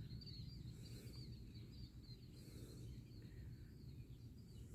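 Quiet outdoor ambience: a low background rumble with a faint, steady high-pitched trill running through it.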